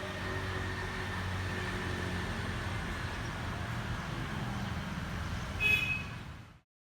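A motor vehicle's engine running steadily as a low drone, with a short high-pitched bird call about five and a half seconds in; the sound cuts off abruptly shortly before the end.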